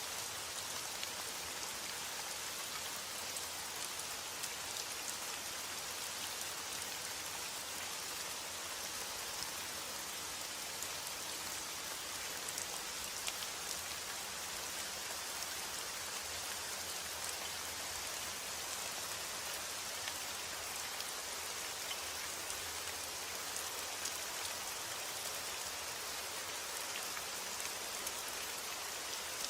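Steady rain, a constant hiss with scattered drop ticks, falling on a surface.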